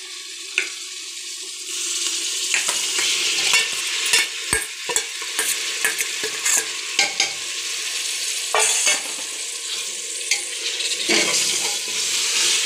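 Marinated chicken sizzling as it drops into hot oil and fried onion in a pressure cooker, with a steel spoon scraping and clinking against the bowl and cooker as it is pushed in and stirred. The sizzle gets louder about two seconds in.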